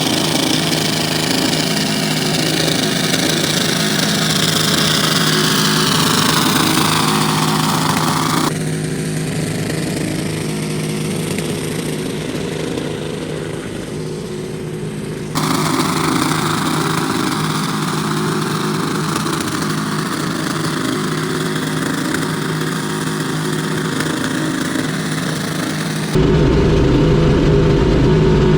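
Turbocharged V8 engine running hard at steady high revs, in several clips cut together: a quieter stretch in the middle and a louder, deeper one near the end.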